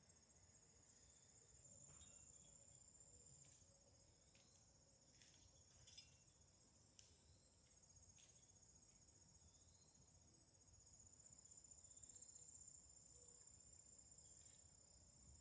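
Faint, steady high-pitched trilling of crickets, with a few faint clicks.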